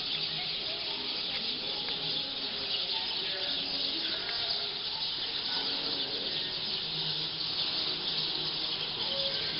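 A large flock of black birds calling all together as they settle to roost in a tree, a dense, unbroken din of many overlapping chirps and squeaks.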